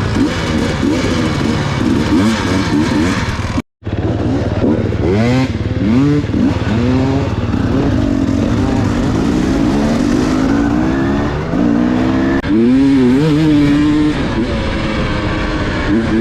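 Enduro dirt bike engines revving up and down over and over as they are ridden, the sound breaking off for a moment about four seconds in.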